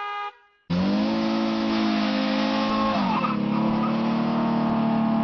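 AI-generated car engine sound: after a short horn-like tone cuts off, an engine revs up and holds a steady pitch, then its pitch dips and settles lower about three seconds in.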